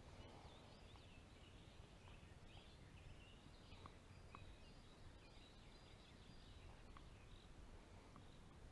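Near silence: faint, scattered birdsong with short high chirps over a low outdoor background rumble.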